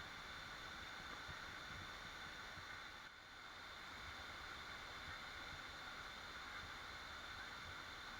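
Waterfall rushing: a steady, faint wash of falling water, with a brief dip in level about three seconds in.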